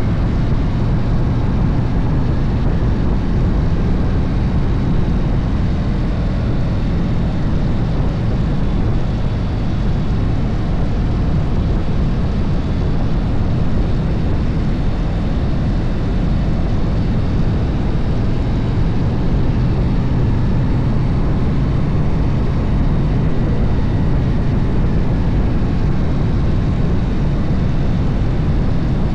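Harley-Davidson motorcycle cruising steadily downhill: engine drone mixed with steady wind rush on the camera microphone.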